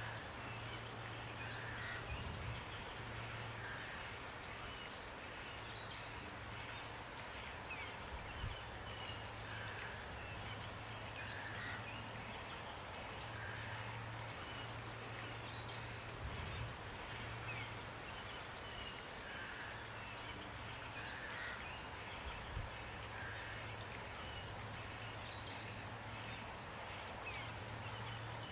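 Steady rain hiss with small birds singing over it: bursts of quick, high, falling chirps and a softer call repeating about every two seconds. A low hum comes and goes underneath.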